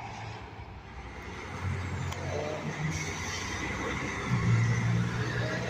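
A heavy truck's diesel engine running as it approaches on the road, its low steady note growing louder about four seconds in, over road and tyre noise.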